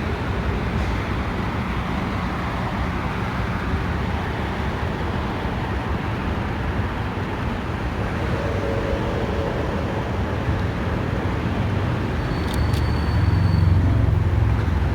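Steady vehicle and road noise, a low rumble that swells a little near the end.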